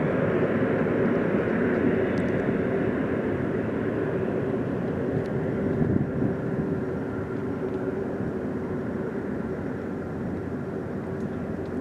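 Jet engines of an Airbus A330-300, its Rolls-Royce Trent 772 turbofans, running steadily at low power before the takeoff roll: a continuous rushing noise with a steady hum, slowly getting quieter.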